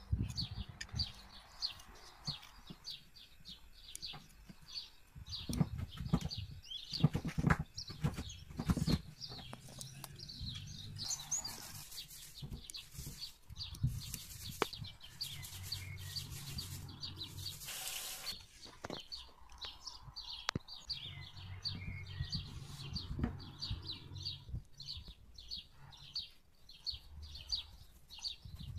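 A small bird chirping over and over in quick short notes. Under it are scattered knocks and rubbing from sweet potatoes being handled and scrubbed in a pan of water.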